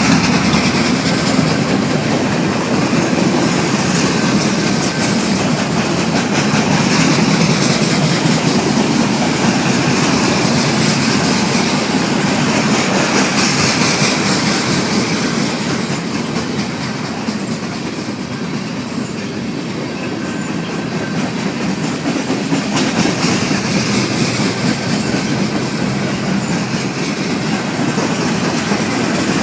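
Train cars rolling past, their wheels clicking continuously over the rail joints. The noise eases slightly midway and then comes back up.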